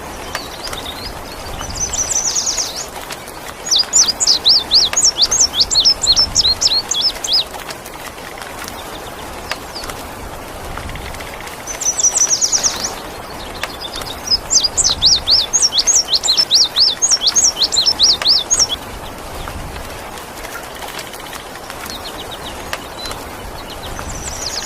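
Small songbird singing two bouts of rapid, high up-and-down chirping notes, each lasting about four seconds and opening with a short buzzy phrase, over a steady hiss of rain.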